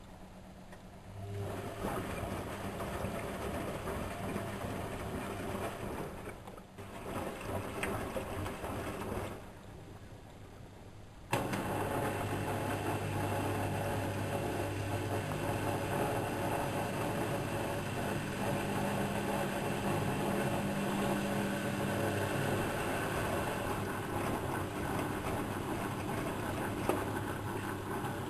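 Whirlpool Expert 1000 washing machine in its wash cycle: the drum motor hums as it turns the drum and the laundry and water slosh. It stops for a couple of seconds, then starts again abruptly and runs on steadily.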